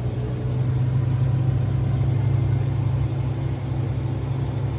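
A vehicle engine running steadily with a low hum, getting slightly louder in the first second.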